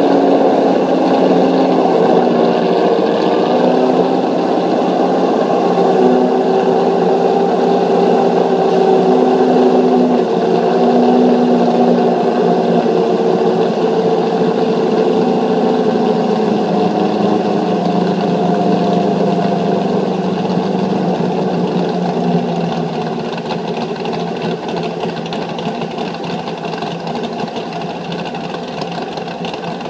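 Custom 427 ci naturally aspirated LS7 V8 of a 2003 Corvette Z06, running at idle through American Racing headers and a Corsa Xtreme exhaust as the car creeps into the garage. The pitch wavers slightly at first, and the sound drops noticeably quieter about three-quarters of the way through.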